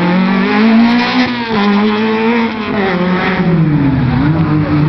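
Fiat Uno slalom car's engine revving hard, its pitch climbing, dropping sharply about a second and a half in, climbing again and dipping once more near the end as the driver accelerates and lifts off between gates.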